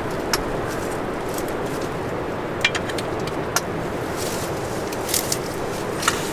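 Steady wind noise, with a few sharp clicks scattered through it.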